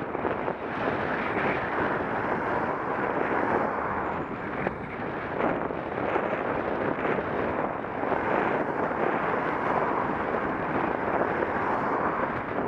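Wind rushing over an action camera's microphone on a moving bicycle: a steady noise that swells and dips.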